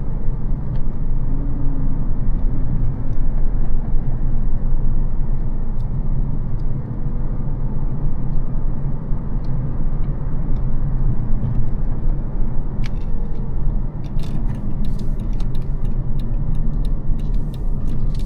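Mercedes-Benz CL600 (C215) with its 5.5-litre twin-turbo V12 driving at a steady pace: a deep, even rumble of engine and road. Past the middle, a run of irregular sharp clicks joins in.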